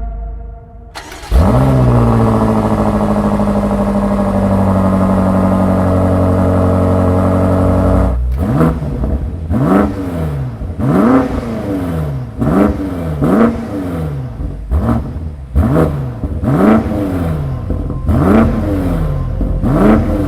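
BMW M8 Competition's twin-turbo V8 starting up with a rev flare and settling to a steady idle. After several seconds it is blipped repeatedly, about once a second, each rev rising and falling back.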